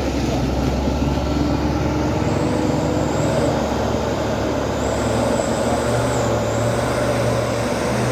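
Heavy truck's diesel engine running hard under load, its low note changing about two seconds in, with a thin, wavering high whine over it.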